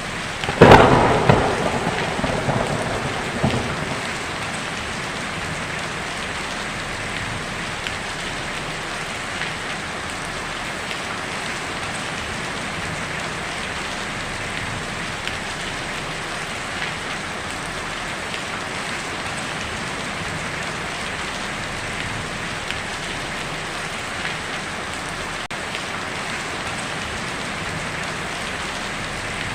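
Heavy rain drumming steadily on a tin roof. About half a second in, a sharp close thunderclap cracks and rumbles away over about three seconds.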